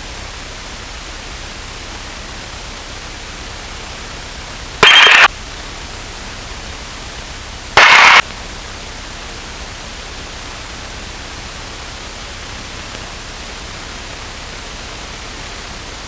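Steady hiss of aviation radio audio between transmissions, broken twice by a short, loud burst of under half a second, about five and eight seconds in.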